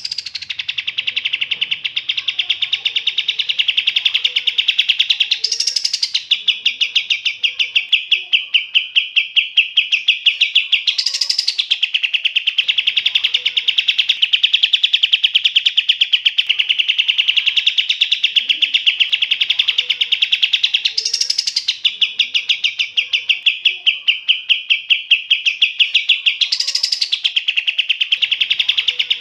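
Songbird singing a fast, unbroken rattling trill, with a brief higher, sharper surge about every five to six seconds.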